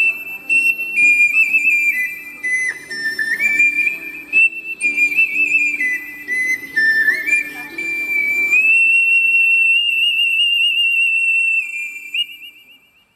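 Ocarina playing the closing phrase of a melody over a lower accompaniment. The accompaniment stops about two-thirds of the way through, and the ocarina holds a long final note with vibrato, then fades out.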